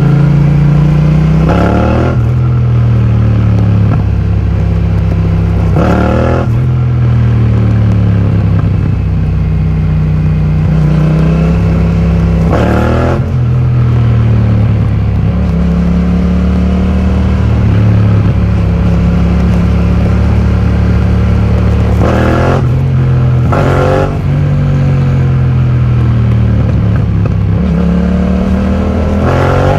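2020 Yamaha MT-07's 689 cc parallel-twin engine through an Akrapovic full titanium exhaust with the dB killer removed, running under way. The revs hold steady for stretches and glide up and down, with about six short, sharp changes in engine note a few seconds apart.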